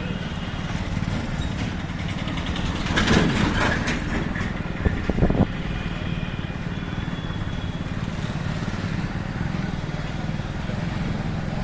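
Street traffic noise heard from a moving motorbike: a steady low running rumble with road and wind noise. A louder noisy stretch comes about three seconds in, and three sharp knocks follow around five seconds in.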